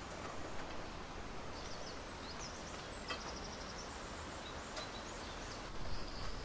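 Outdoor rural ambience: a steady background hiss with a few short, high bird chirps about two to three seconds in and a couple of light clicks.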